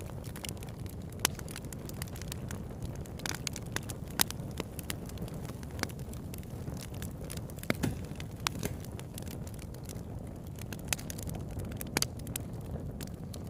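Campfire burning: a steady low rush of flame with irregular sharp crackles and pops from the wood, a few louder snaps standing out about a second, four, eight and twelve seconds in.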